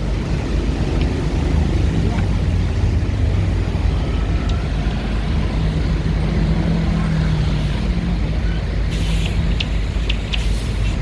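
A heavy engine running steadily with a low rumble, with a few sharp ticks near the end.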